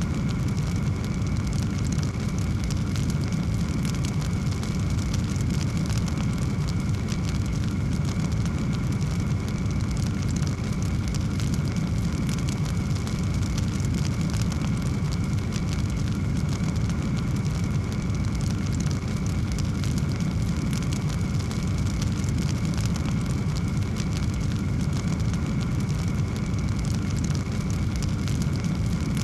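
Wood fire in a fireplace burning steadily, a dense low rumble of flames with constant fine crackling.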